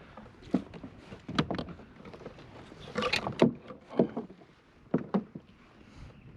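Irregular knocks and thumps on a plastic fishing kayak's hull and deck, with a short clattering cluster about three seconds in.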